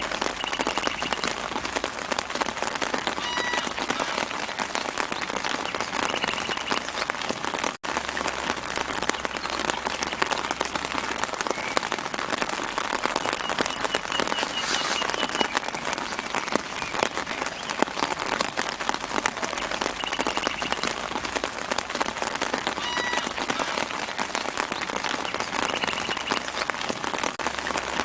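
Steady light rain pattering on foliage, dense and even, with a bird chirping briefly every few seconds in the background. The sound cuts out for an instant about eight seconds in.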